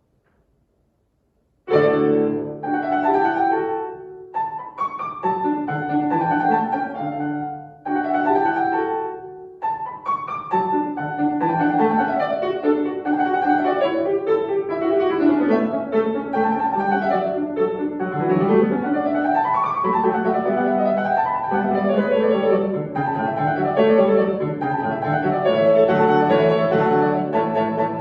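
Solo piano playing a classical piece. It starts about two seconds in with short phrases separated by brief pauses, then runs on in continuous flowing passages.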